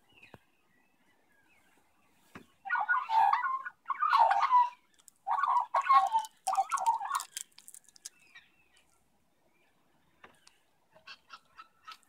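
Four loud, raspy bird calls of about a second each, one after another. They are followed near the end by a quick run of faint short chirps.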